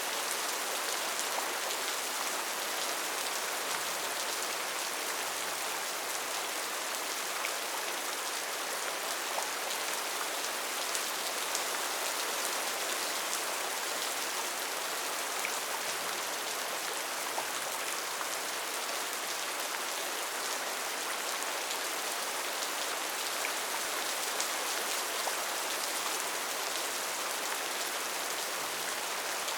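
Steady rain falling in a rainforest: a dense, even hiss of drops with many tiny patters, unchanging throughout.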